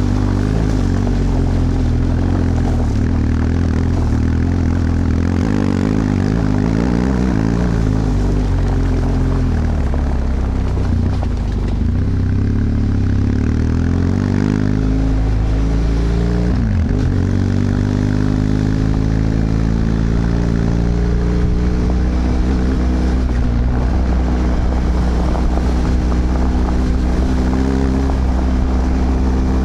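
BMW F 800 GS parallel-twin engine on its original exhaust, running under way as the motorcycle is ridden. The pitch sinks and rises with the throttle; past the middle it dips sharply for a gear change, then climbs as the bike accelerates and settles to a steady cruise.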